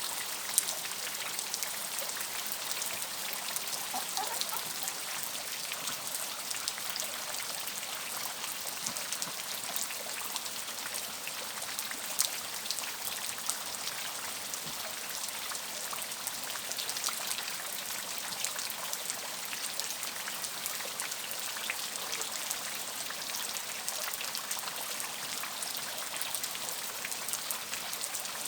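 Steady rain falling, a continuous hiss with many fine drop ticks and a few louder single drips.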